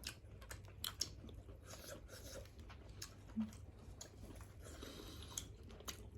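Faint, close-up chewing of a mouthful of lobster, with scattered small wet mouth clicks.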